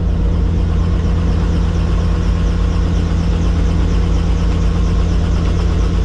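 Helicopter running, a loud, steady drone of turbine and rotor with a fast, even beat from the blades.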